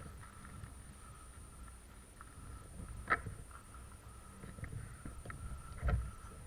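Knocking and rustling from movement on the microphone, over a faint steady whine. A sharp click comes about three seconds in, and a heavier thump near the end.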